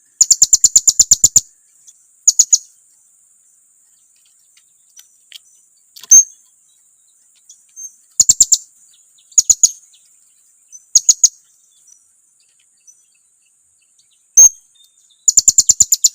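Blue-crowned hanging parrot (serindit) calls used as a lure call. Bursts of rapid, very high-pitched chirps come in a long run of about a dozen near the start, shorter groups of a few chirps in between, and another long run near the end.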